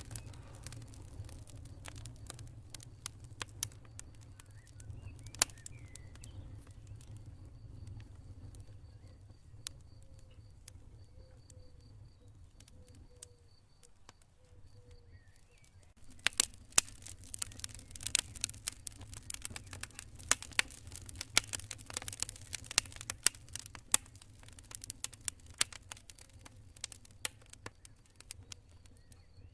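Campfire crackling, with sharp pops and snaps over a low steady rumble of the flames; the crackling grows much denser and louder about halfway through. A cricket chirps faintly in a steady pulsing trill in the middle part.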